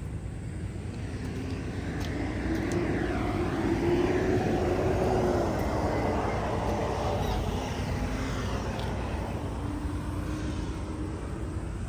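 Engine noise of a passing vehicle, swelling to its loudest about four to six seconds in and then slowly fading.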